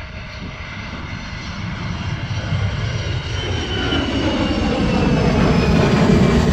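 Jet engines of a large cargo aircraft coming in to land, growing steadily louder, with a high whine that slowly falls in pitch in the second half.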